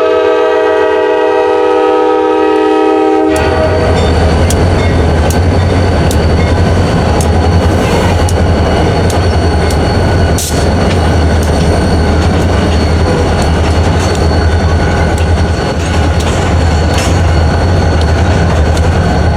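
A train horn sounds a steady multi-note chord that cuts off about three seconds in. The train then passes through the crossing: a loud, steady rumble of locomotive and railcars with clicks from the wheels crossing rail joints.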